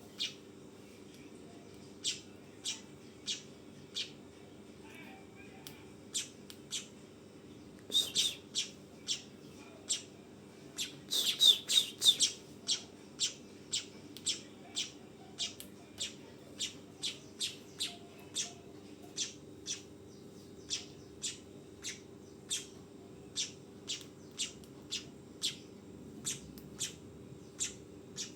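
Manyar (weaver bird) giving its trotolan call: short sharp high chirps, about one to two a second, with bursts of rapid, louder chattering near the middle. A steady low hum runs underneath.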